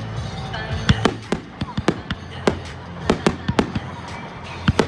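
Fireworks bursting in quick succession, about a dozen sharp bangs, with music playing underneath.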